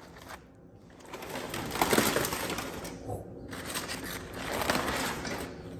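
Crinkling, crackling rustle of the wrapping on a smoked pork butt being pulled open, in two long stretches, the first starting about a second in and the second following a brief pause.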